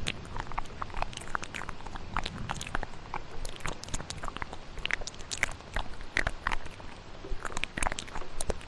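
Layered ASMR mouth sounds: many quick wet clicks and smacks at an irregular pace, over the steady hiss of a rainstorm.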